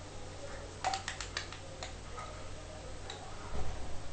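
A quick run of sharp clicks about a second in, with a few more scattered after, as small plastic bird-cage feeders and drinkers are handled and knocked together during washing. A low thump comes near the end, over a steady low hum.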